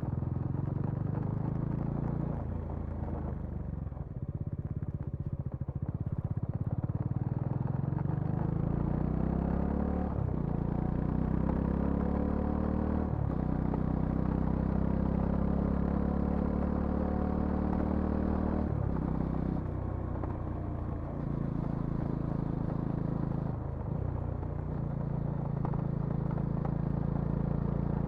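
Bajaj Dominar 400's single-cylinder engine running steadily, then accelerating through the gears. Its pitch climbs and drops sharply at each of about four upshifts.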